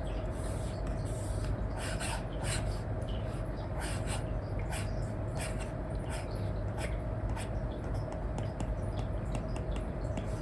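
Apple Pencil with an Elecom nib scratching and tapping on an iPad's paper-like screen film: irregular short pen strokes over a steady hiss and a faint hum.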